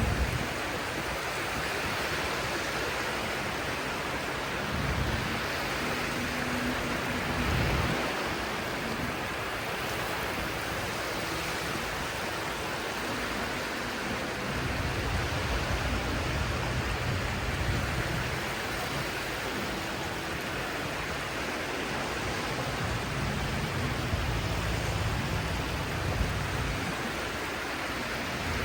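Sea surf washing steadily, with low rumbles coming and going every few seconds.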